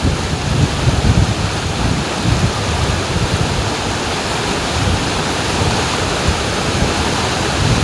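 Waterfall pouring in a steady, dense rush of water noise, with wind buffeting the microphone in low gusts, strongest in the first second or two.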